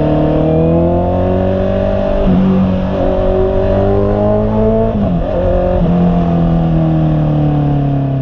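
Honda CB650R's inline-four engine running under way, its pitch rising and falling with the throttle. The pitch changes abruptly twice, about two and five seconds in, then drops slowly near the end as the bike slows.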